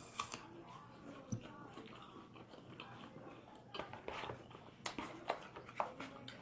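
Someone chewing and biting fruit at close range: a few soft, scattered crunches and mouth clicks.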